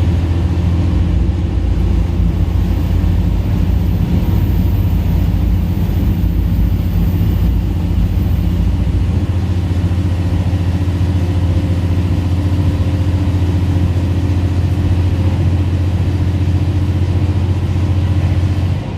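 Diesel railcar running along the line, heard from inside the carriage: a steady low engine drone over the rolling noise. The level drops suddenly near the end.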